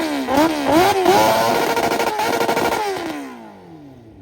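Car engine revved hard in several quick throttle blips, then held briefly and let fall back toward idle, the pitch sliding down near the end.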